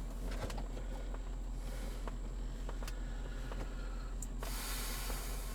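Plastic interior trim being handled and worked into the console: scattered light clicks, then a sudden hissing scrape of plastic rubbing on plastic about four and a half seconds in. A steady low hum runs underneath.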